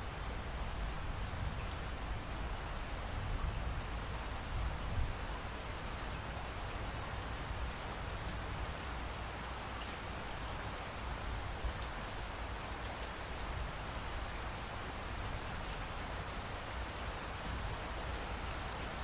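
Steady rainfall: an even hiss of rain with a low rumble underneath.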